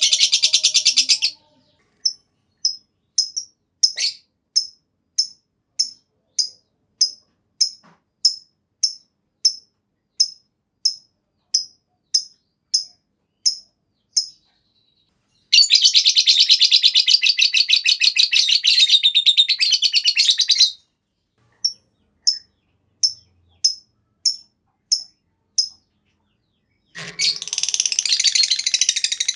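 Lovebird ngekek: long bursts of rapid, shrill chattering song, several seconds each, broken by runs of single sharp chirps repeated about every half second.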